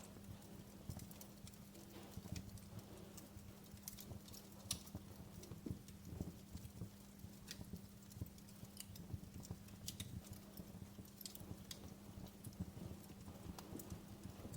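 Wood fire crackling: irregular sharp pops and snaps, some louder than others, over a low steady hum.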